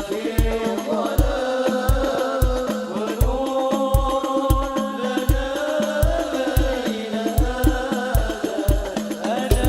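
Hadroh ensemble playing sholawat: deep bass-drum thumps and sharp frame-drum (rebana) slaps in a steady rhythm under a long, sustained sung melody.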